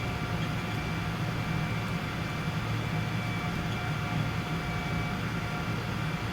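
Steady cabin noise inside a Boeing 777-200 airliner: a low hum with a few faint, steady whining tones above it, from the engines and air system.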